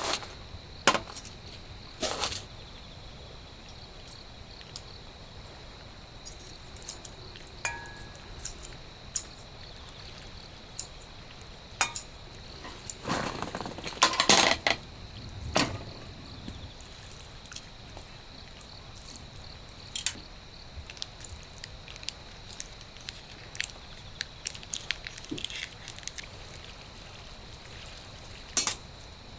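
Steady hiss of light rain with irregular drips and small clinks and taps, as of camp gear or dishes being handled. A louder run of knocks comes about halfway through.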